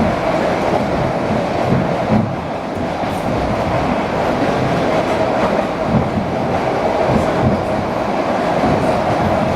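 ED4M electric multiple unit running at speed between stations: a steady rumble of wheels on the rails with a constant hum, and a few low knocks, the loudest about two seconds in and again about six seconds in.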